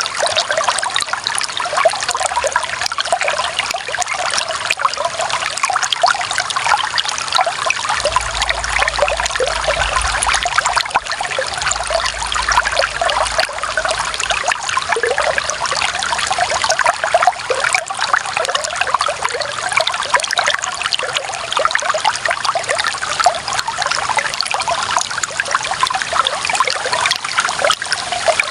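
Clear running water trickling and splashing steadily, a dense, bright babble of many small splashes.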